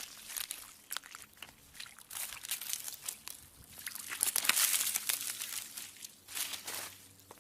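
Ice cracking: a dense run of sharp cracks, crackles and crunches, busiest and loudest about four to five seconds in.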